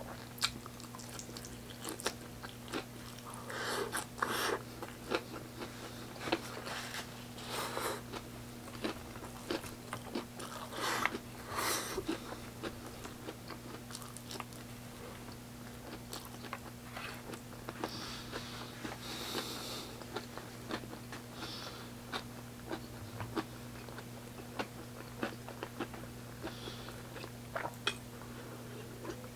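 A person biting and chewing fried chicken close to the microphone: crunches and wet mouth clicks come in clusters, over a steady low hum.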